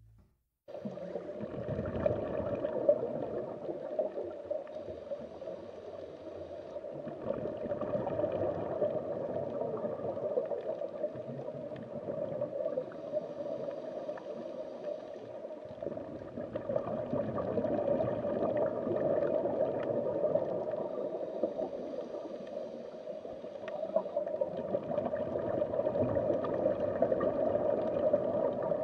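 Underwater ambience sound effect: steady bubbling and gurgling water, starting about a second in.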